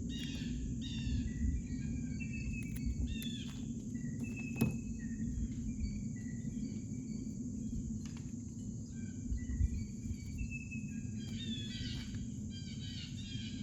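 Songbirds chirping and calling, many short repeated notes, some falling in pitch, over a steady low outdoor rumble. A few light clicks, one about four and a half seconds in.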